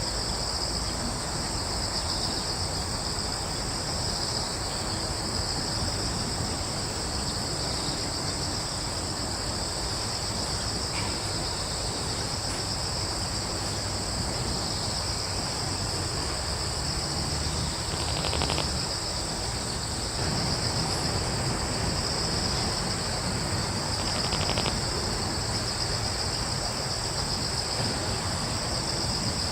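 Crickets chirping steadily, a continuous high trilling in two pitch bands, over a low rumble of breeze. Two brief, faint sounds break in during the second half.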